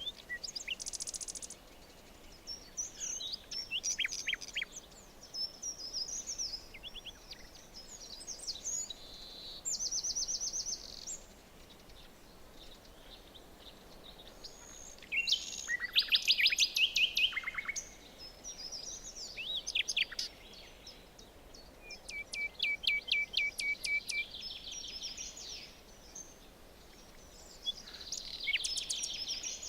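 Several songbirds singing in a forest, their phrases overlapping: short chirps, whistled notes and fast trills. The loudest is a rapid trill about halfway through, and there is a run of quick repeated notes a few seconds later.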